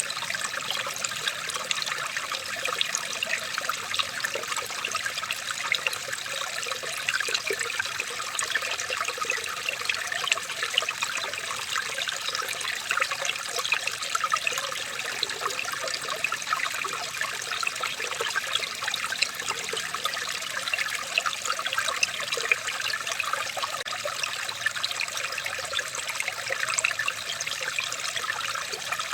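Water trickling steadily in a small stream, with a dense patter of tiny splashes and no change in level.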